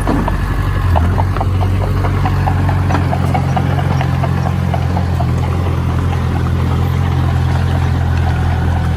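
Heavy construction machine's engine running steadily with a deep hum. During the first half a rapid run of light ticks, about four a second, sounds over it, then fades out.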